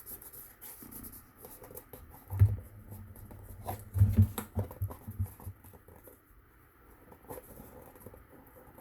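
Quiet handling noise of glued cardstock and a cardboard box being folded and pressed by hand: light rustles and clicks, with soft low thumps about two and a half seconds in and again around four to five seconds in.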